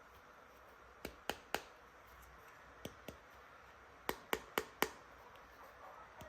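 Sharp clicks and taps of plastic toy pieces being handled: three about a second in, two near the middle, then four in quick succession.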